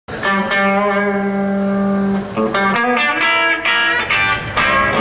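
Background music: an electric guitar holds one long note, then plays a run of shorter changing notes from about two and a half seconds in.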